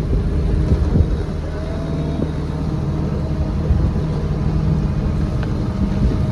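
A sailing yacht's inboard engine running steadily with a low drone. The engine is deteriorating and about to fail.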